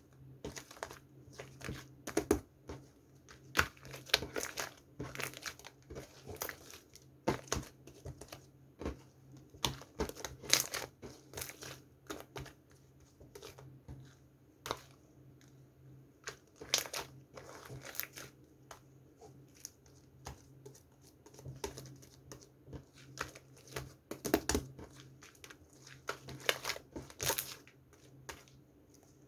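Slime being squished, pressed and stretched by hand, giving irregular crackles and pops.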